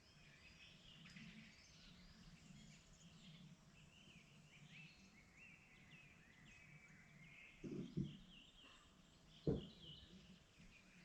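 Faint chorus of several small songbirds chirping and trilling in spring, over a low steady background rumble. Two dull low thumps come in the last few seconds.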